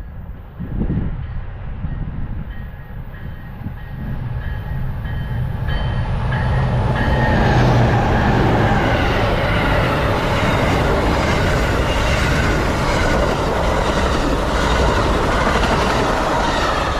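Amtrak passenger train passing at speed: the diesel locomotive's engine hum comes first, then the loud rush and rapid clatter of the cars' wheels over the rails builds about four seconds in and keeps going.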